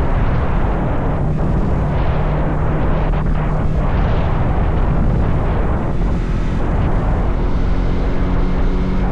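Motorcycle engine running at a steady cruise with heavy wind rushing over the microphone. The engine's steady hum sits under a loud, even wind roar.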